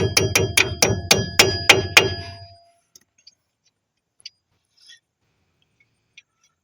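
Hammer striking a metal part in quick, even blows, about four a second, each blow ringing. The blows stop about two seconds in and the ring dies away, leaving a few faint clicks.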